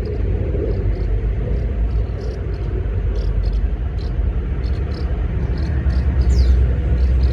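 Steady low outdoor rumble, with faint short high chirps scattered through and one falling chirp near the end.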